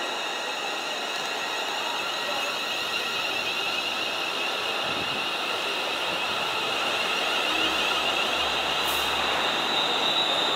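A TransPennine Express Class 350 Desiro electric multiple unit running slowly past along the platform, with a steady high-pitched whine over its running noise. A low rumble joins about three-quarters of the way through as it grows louder.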